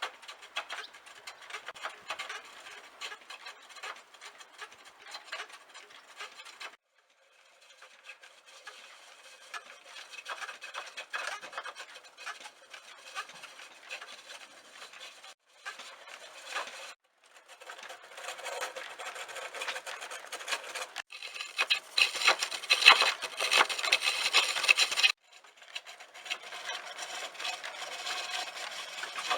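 Woodturning tool scraping and cutting wood spinning on a foot-powered treadle lathe: a continuous rasping, broken off abruptly several times and loudest a little after the middle.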